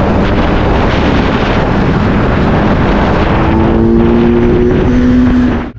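Wind buffeting the microphone over the noise of a moving vehicle on the road, loud and steady, with a low humming tone coming in about halfway through; it cuts off abruptly at the end.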